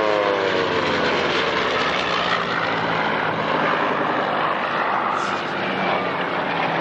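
Second World War piston-engined fighter aircraft flying a low mock dogfight. One plane's engine and propeller drone drop in pitch as it passes in the first second, then the steady noise of several aircraft wheeling overhead.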